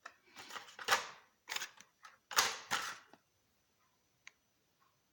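Clattering and crinkling of carded die-cast toy cars being handled: the plastic blister packs and cards knock and rustle in several quick bursts over about three seconds, then a few faint clicks.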